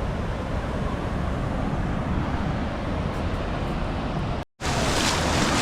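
Wind buffeting the microphone over sea surf. After a brief dropout about four and a half seconds in, the surf comes back louder and brighter.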